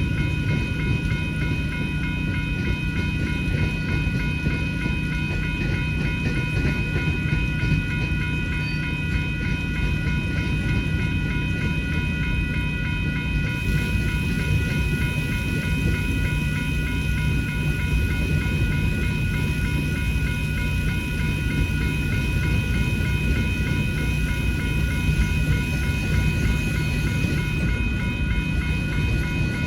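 Freight train cars rolling past over the rails with a steady low rumble, while the grade-crossing signal bells ring continuously.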